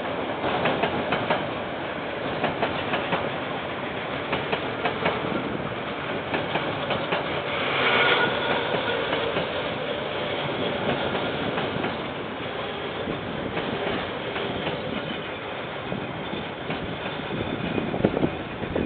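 A KiwiRail train's wagons rolling past, wheels clattering over the rail joints in a steady run of clicks, briefly louder about eight seconds in.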